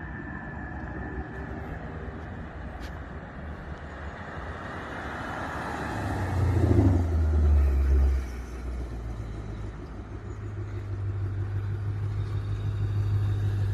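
Ford Mustang GT's V8 running through an aftermarket Borla exhaust with a low, deep rumble. It is loudest between about six and eight seconds in, then settles into a steady low drone that slowly builds toward the end.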